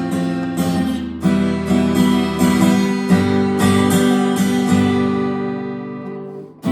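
Acoustic guitar strummed in an instrumental passage without singing. Near the end the chords ring out and fade.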